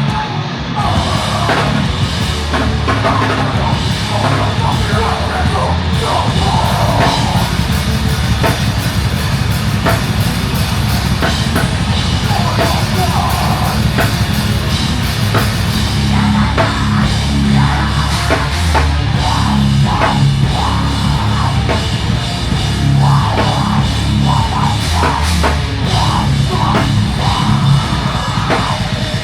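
Loud, heavy hardcore-style rock music driven by a pounding drum kit, continuous throughout.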